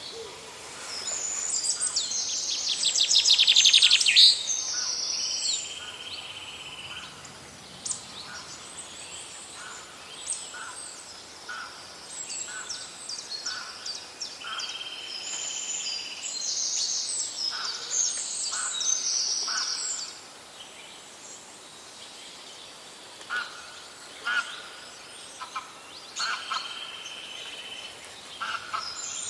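Several forest birds singing and calling at once: high whistled phrases repeat throughout, with a loud, fast trill about three to four seconds in, and short lower notes in between.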